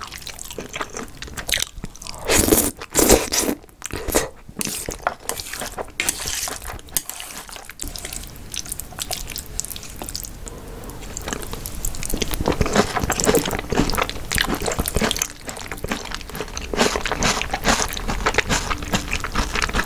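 Close-miked eating of jajangmyeon, black bean noodles in a thick sauce: wet chewing with crisp crunching bites, loudest about two to three seconds in.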